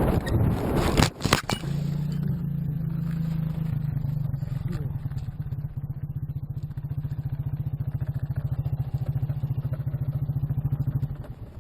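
Car crash: a loud collision impact with scraping and clatter about a second in, then a vehicle's engine running with a steady, fast-pulsing low hum that cuts off near the end.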